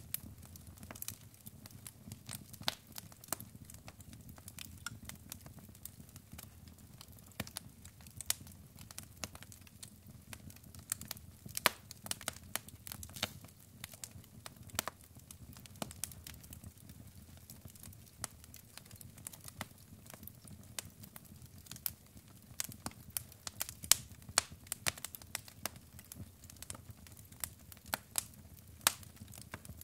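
Log fire crackling in a fireplace: irregular sharp pops and snaps, a few much louder than the rest, over a low steady rumble of the burning.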